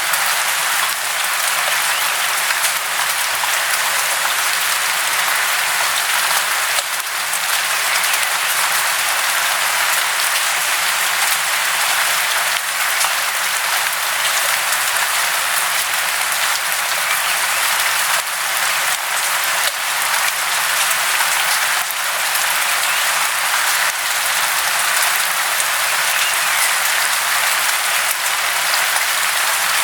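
Steady, dense hiss of rushing or falling water, unchanging in level, with no low rumble beneath it.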